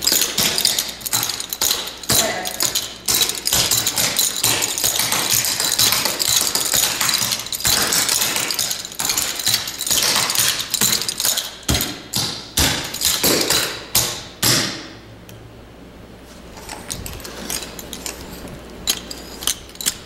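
Clogging shoes with metal jingle taps striking a hard floor in fast, rhythmic footwork. The steps stop about fifteen seconds in, leaving a few scattered taps.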